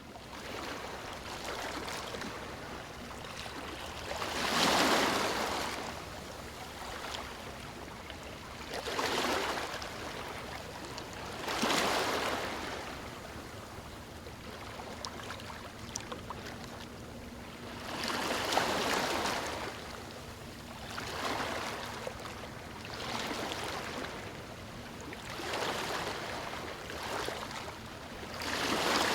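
Small waves breaking onto a stony shore, each surge of hissing wash rising and falling every few seconds, over a steady background of water noise.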